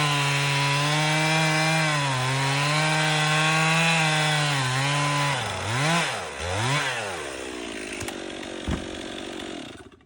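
Two-stroke chainsaw running at high revs through a cut, its pitch dipping briefly under load twice. It is then let off the throttle and revved twice, runs lower and quieter, and cuts off suddenly at the end.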